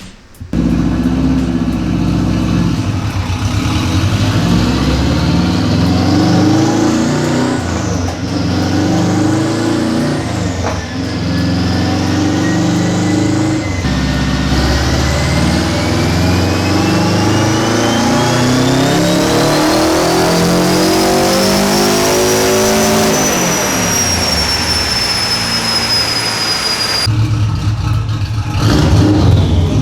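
Turbocharged Subaru EJ205 flat-four in a race car making a pull on a chassis dyno. The revs rise and fall a few times, then climb steadily for about nine seconds with a high whine rising alongside. The throttle closes and the revs and whine fall away, the engine dropping to a lower, steady run near the end.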